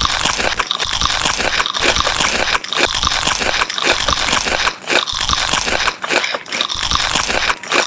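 A pet eating the food: loud, continuous chewing and crunching, with sharp bites every half second or so.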